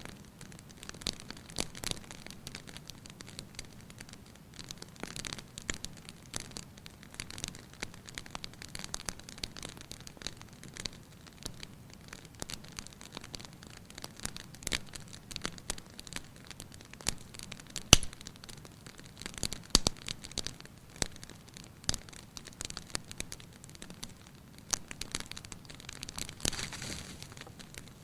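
Fireplace fire crackling, with irregular sharp pops over a soft low rush of flame, and one much louder pop about 18 seconds in.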